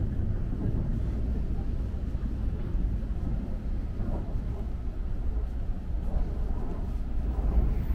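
Steady low rumble of an N700S-series Shinkansen bullet train running, heard inside a passenger car.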